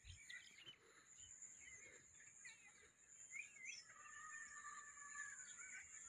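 Faint birds chirping and calling, with a longer drawn-out call about four seconds in, over a steady high-pitched whine.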